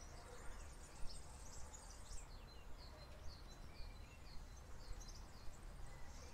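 Faint outdoor ambience: small birds chirping, with many short high chirps coming several a second, over a steady low rumble.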